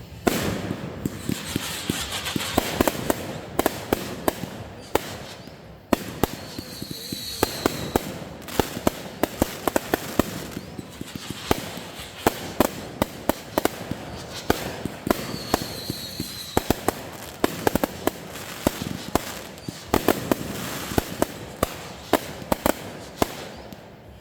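Fireworks going off in quick succession: many sharp bangs and dense crackling that build up and die away twice, with a brief high wavering whistle twice.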